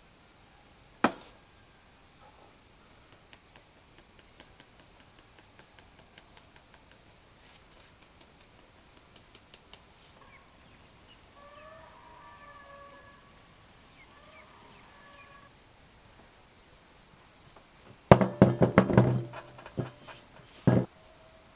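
A single sharp knock about a second in, then near the end a quick cluster of loud knocks and thumps.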